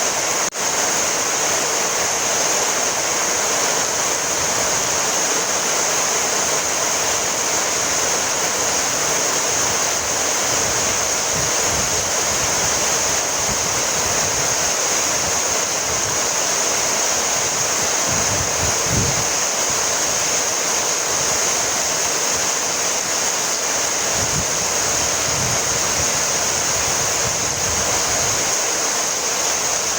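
Heavy rain falling steadily, an even hiss with no let-up, with a few brief low rumbles about two-thirds of the way through.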